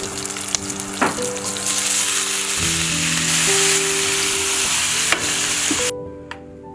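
Food sizzling and frying in a hot pan while being stirred, with a couple of sharp utensil knocks against the pan; the sizzle cuts off suddenly near the end. Soft background music plays underneath.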